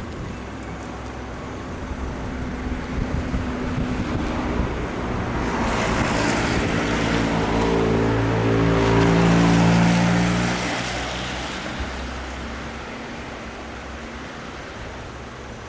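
Passenger train of TEE coaches running slowly on curved track. Wheels click over the rail joints in the first few seconds, then a locomotive's engine hum swells to its loudest about two-thirds of the way through and fades as the train moves away.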